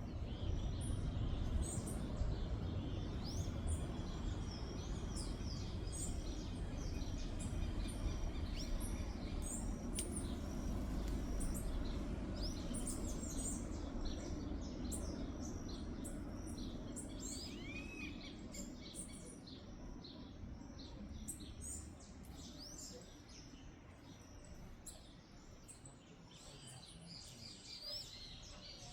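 Several wild birds chirping and calling in quick, overlapping short notes, over a low rumble of background noise that fades away over the second half.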